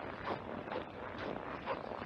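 Footsteps crunching on snow, about two steps a second, each a short rough crunch.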